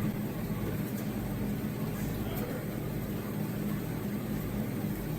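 Steady low hum of a machine running, with a couple of faint clicks.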